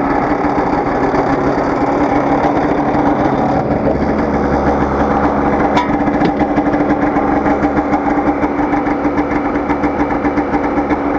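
Polaris 550 two-stroke twin-cylinder snowmobile engine running steadily at idle, warming up after a cold start. A single short click about six seconds in.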